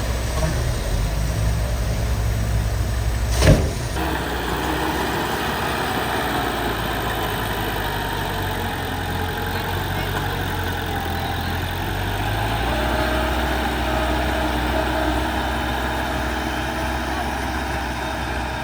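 Diesel engine of heavy earthmoving machinery running steadily at low revs, with a single sharp click about three and a half seconds in.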